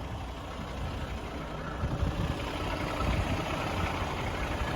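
Diesel semi-truck engine idling steadily, growing slightly louder near the end.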